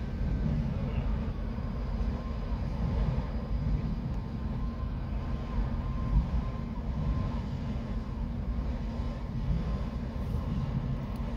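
Freight train of enclosed autorack cars rolling past at a steady pace: a continuous low rumble of steel wheels on the rails.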